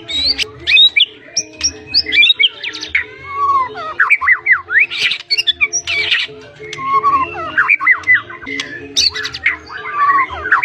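White-rumped shama singing a fast, varied song of whistled up- and down-sweeps, harsh chattering notes and sharp clicks, packed with mimicked phrases.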